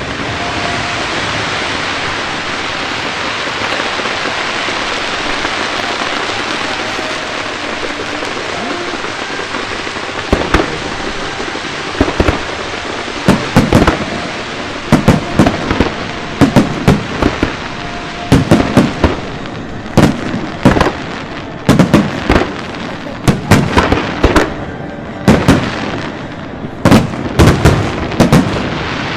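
Fireworks going off: a steady dense crackling hiss for about the first ten seconds, then loud sharp bangs in quick clusters of several at a time.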